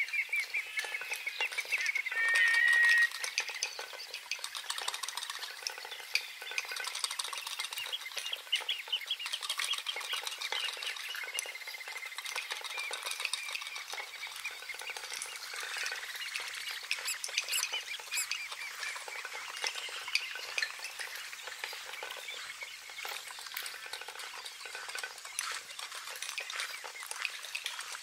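Birds calling: a clear whistled call in the first few seconds over a dense, crackling chatter of many small calls that goes on throughout.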